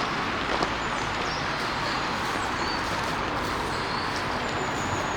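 Small birds chirping, short high chirps scattered through, over a steady outdoor hiss of background noise.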